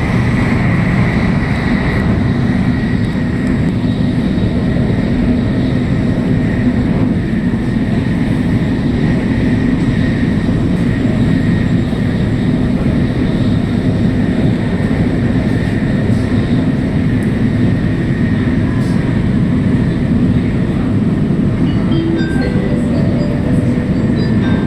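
Cabin noise of an N700S Shinkansen running at speed: a steady low rumble with hiss. About 22 seconds in, a chime melody of short notes starts over the train's speakers, the signal that comes ahead of the onboard arrival announcement.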